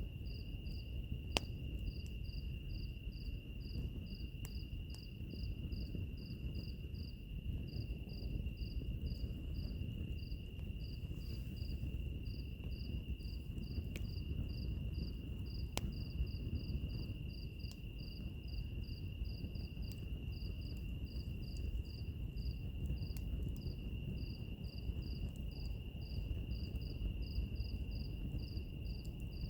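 Crickets chirping in a steady rhythm of about two chirps a second over a continuous high insect trill, with a wood fire crackling underneath and giving an occasional sharp pop.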